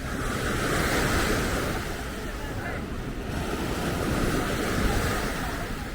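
Ocean surf breaking and washing on a sandy beach, with wind rumbling on the microphone. A wave's hiss swells about a second in and thins out about three seconds in.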